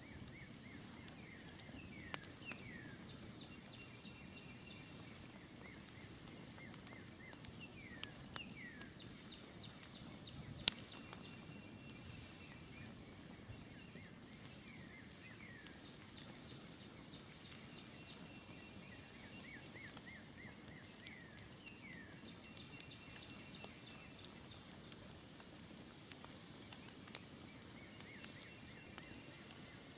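Campfire crackling faintly with scattered sharp pops, the loudest about ten and a half seconds in, while a songbird repeats a short phrase of quick descending notes every several seconds.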